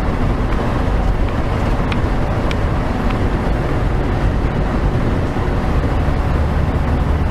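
Steady road and engine rumble of a truck being driven, with a deeper steady drone setting in near the end.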